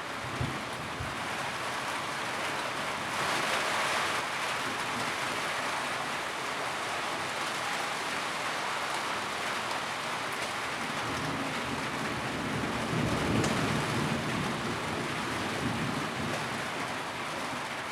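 Steady heavy rain drumming on a tin roof. It intensifies briefly a few seconds in, and a louder low rumble swells about two-thirds of the way through.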